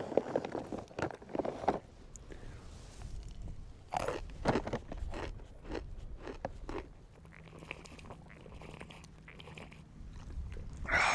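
A person chewing and crunching a mouthful of nuts, the crunches coming irregularly and thinning out after about seven seconds.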